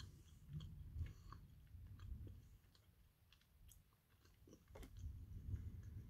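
Faint chewing of a soft praline cream chocolate, with scattered small mouth clicks.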